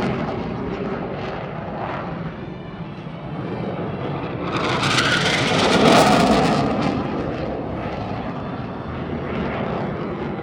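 Jet aircraft flying past, a rushing engine noise that swells to its loudest about six seconds in and then fades back.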